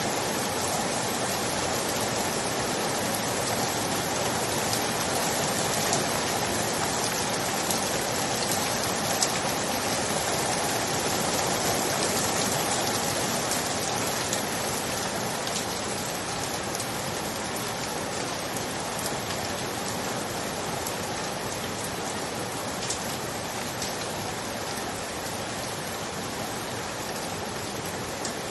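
Steady rain falling, a dense even hiss with scattered individual drop taps.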